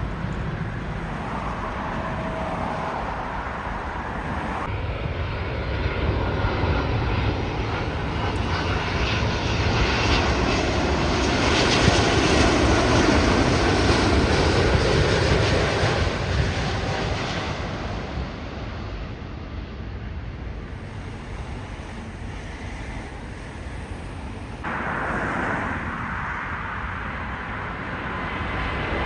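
Airliner jet engines heard as a plane passes: a steady rushing rumble that swells to its loudest about halfway through, then fades, with abrupt changes near the start and the end where the sound cuts.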